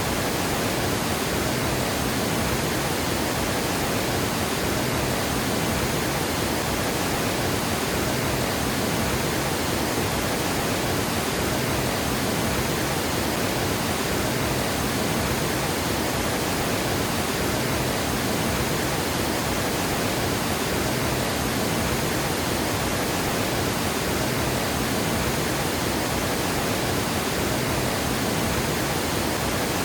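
Water pouring over a dam spillway in a steady, even rush of white noise.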